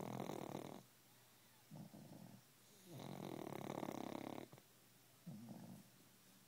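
Pug snoring: a long, louder snore about every three seconds, each followed by a shorter, quieter one.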